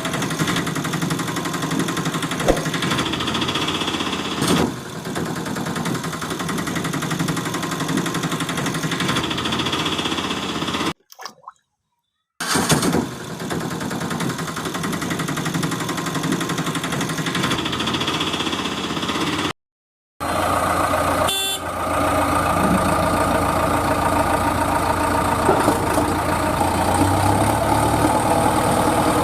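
A vehicle engine running steadily, cut off twice by short silent gaps.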